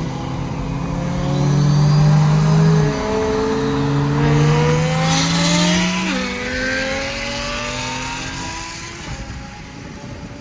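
Turbocharged Toyota Supra engine accelerating hard, its pitch climbing through the gears with upshifts about three seconds and six seconds in, then pulling on in the next gear as the sound eases off toward the end.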